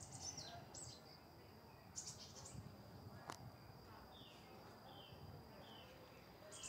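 Faint outdoor ambience of small birds chirping: scattered short high chirps and a few falling notes over a thin steady high tone, with one sharp click a little past three seconds in.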